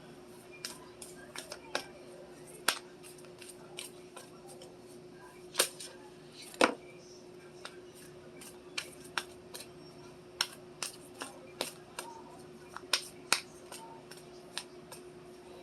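Oracle cards being shuffled by hand: irregular light clicks and snaps as the cards slap together, over a steady hum.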